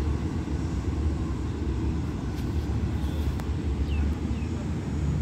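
Low, steady rumble of a passenger train pulling away, fading into the distance. A couple of faint high chirps about four seconds in.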